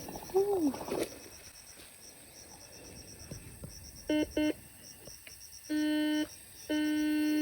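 Electronic beeps at one steady pitch: two quick short beeps, then a longer beep, then a long held tone, over faint steady insect chirping.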